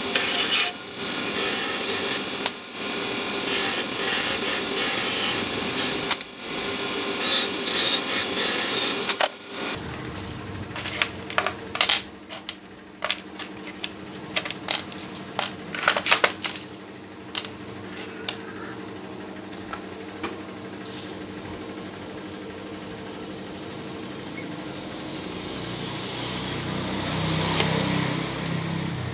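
A power tool runs steadily for about nine seconds, then stops. Afterward a low steady hum remains, with scattered sharp clicks and knocks of metal parts.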